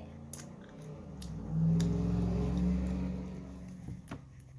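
A long, low hummed "mmm" from a person tasting a snack, held for about two seconds, with a few sharp clicks or crinkles around it.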